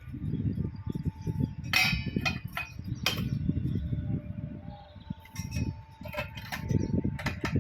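Metal parts of a multistage pump being handled and fitted together: a low, irregular scraping and rubbing, with sharp metallic clinks that ring briefly, a couple about two and three seconds in and several more near the end.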